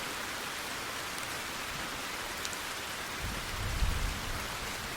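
Heavy rain falling in a steady hiss, with a low rumble of thunder about three seconds in.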